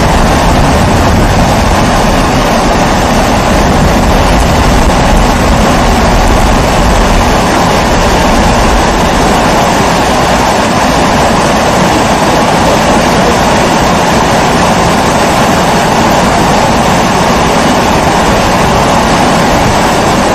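Pressurised kerosene stove (Primus-type babour) burner running: a loud, steady, even rushing noise, strongest in the middle of the range.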